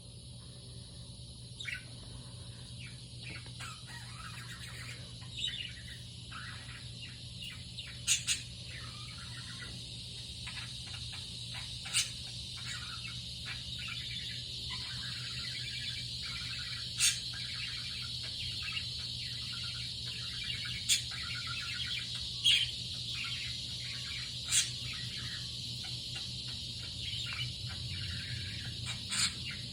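Pet budgerigar warbling, a continuous busy chatter of quick high chirps and clicks, with a sharper, louder chirp every few seconds.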